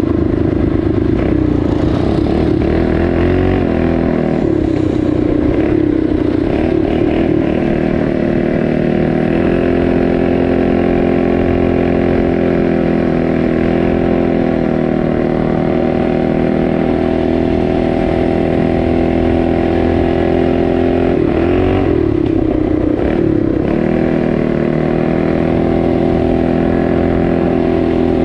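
Small single-cylinder four-stroke trail bike engine running under way at a steady pitch. About three-quarters through, the pitch dips and climbs back twice as the throttle is eased and reopened.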